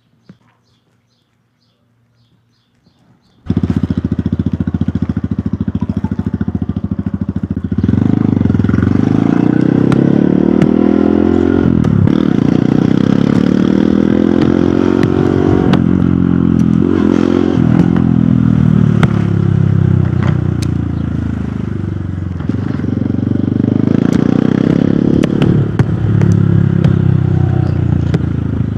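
Hero Hunk motorcycle's single-cylinder four-stroke engine, coming in suddenly a few seconds in and running steadily, then pulling away under acceleration. Its pitch climbs and falls back several times as it shifts up through the gears.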